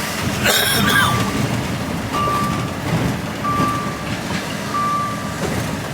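A vehicle's reversing alarm beeping a single steady tone about every second and a quarter, four beeps in all, over the low rumble of a truck engine. A brief rushing noise comes about half a second in.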